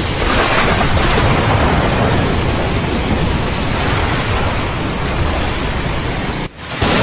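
Steady heavy rain with a low rumble of thunder underneath. The sound cuts out for a moment near the end, then comes straight back.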